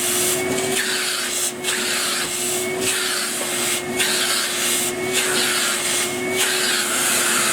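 Numatic Henry canister vacuum cleaner running steadily with its nozzle rubbing back and forth over a dirty filter, the rubbing coming in strokes about once a second.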